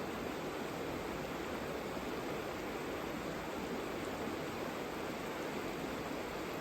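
The Savica river flowing: a steady, unbroken rush of water.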